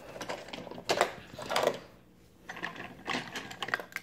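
Die-cast and plastic toy truck haulers being handled and fitted together: irregular small clicks, taps and rattles of metal and plastic parts, in several short clusters with brief pauses.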